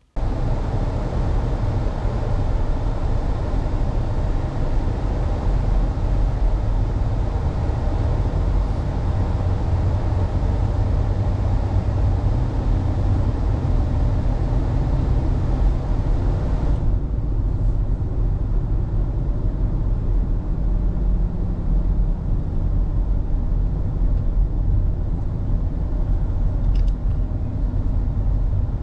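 A car driving, with a steady road and engine rumble. About 17 s in, the hissy top of the noise drops away and the rumble goes on duller.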